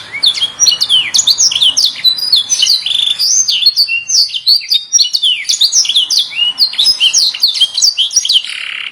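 Canary song: a fast, unbroken run of sharp chirps, whistled notes and trills, with a lower buzzy rolling trill near the end.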